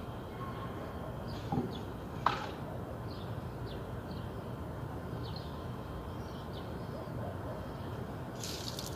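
Small birds chirping now and then over a steady low outdoor rumble, with one sharp click about two seconds in and a short hiss near the end.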